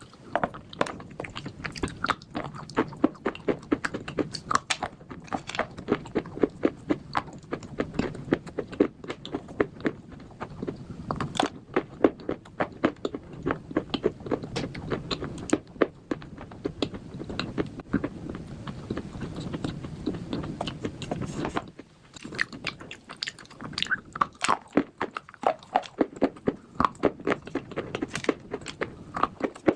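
Someone biting and chewing crunchy slate bars: a dense run of sharp crunches and chewing, with a brief pause about two-thirds of the way through.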